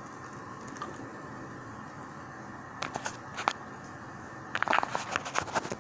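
Steady background hiss, with a few sharp clicks about three seconds in and a rapid run of crackling clicks near the end, like something being handled.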